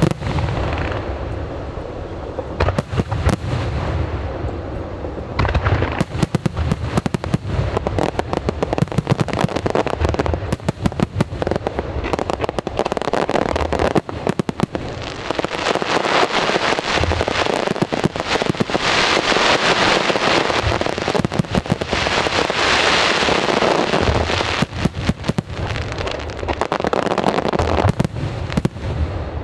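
Fireworks display: aerial shells bursting with deep booms, then dense crackling and popping from many bursts at once, thickest in the middle of the stretch.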